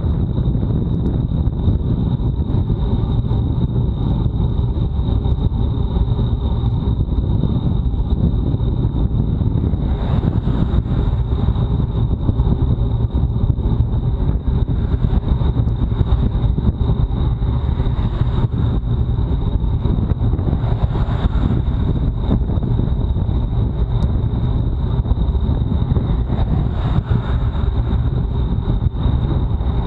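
Wind rushing over a bike-mounted action camera's microphone as a racing bicycle rides fast, a loud steady low rumble with a thin high whine running through it. The hiss swells briefly a few times.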